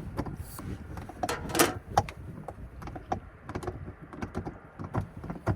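Irregular clicks, knocks and rustles of kitchen gear and food being handled and set down while cooking is set up, with a louder knock about one and a half seconds in.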